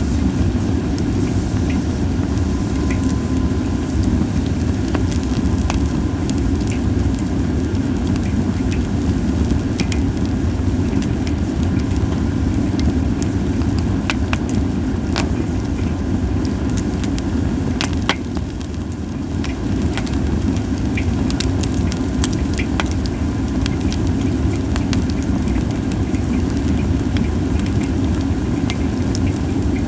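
Japanese white pine logs burning in a campfire, crackling with frequent sharp pops over a steady low rumble.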